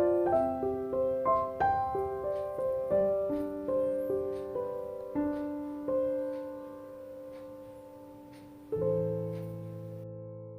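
Background solo piano music: a slow melody of single notes over chords, ending on a held chord about nine seconds in that fades away.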